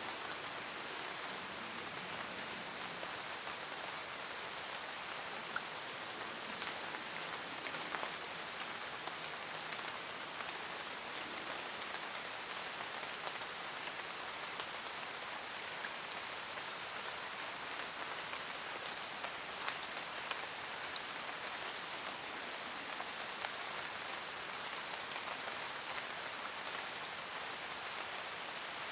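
Steady rain falling in a forest, a continuous hiss with scattered distinct drops ticking on leaves and surfaces.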